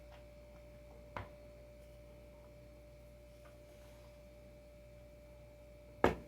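Two knocks as surfskate adapter hardware is handled, a small one about a second in and a much louder one near the end, over a steady faint high hum.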